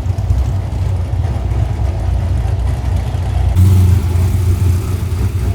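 A car engine running, with a steady low note that gets louder about three and a half seconds in.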